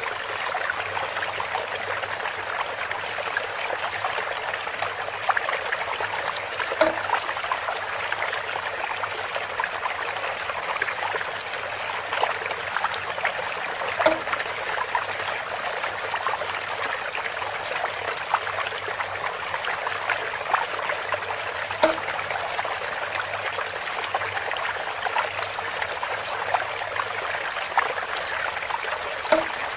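Water trickling steadily through bamboo, with a short pitched knock about every seven seconds.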